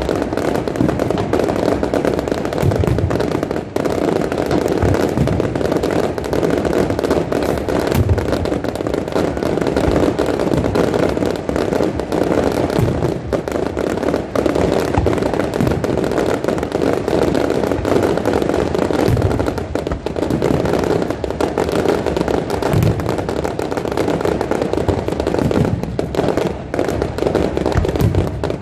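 Aerial fireworks going off in a dense, continuous barrage: many sharp bangs and crackles with deep booms running through it.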